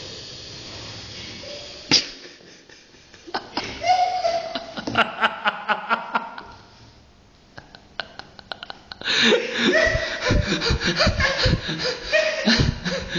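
Laughter broken by sharp knocks and clatters, with a lull in the middle; the laughing and knocking grow dense over the last few seconds.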